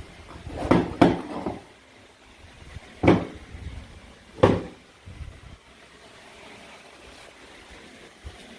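Play-food fruit and vegetable toys being cut on a cutting board: four sharp clacks, two close together about a second in, then one at about three seconds and one at about four and a half seconds.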